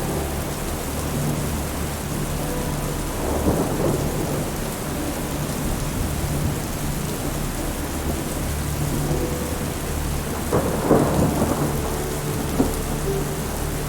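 Steady rain falling, with thunder rumbling; one rumble swells about three and a half seconds in and a louder one comes about ten and a half seconds in.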